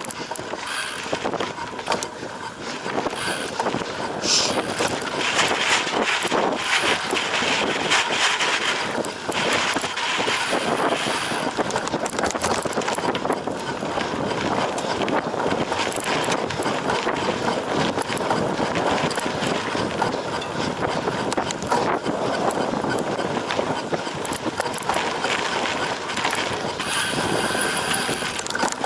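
Cyclocross bike ridden hard off-road: knobby tyres on dirt and grass, with a steady clatter of the chain and frame over rough ground.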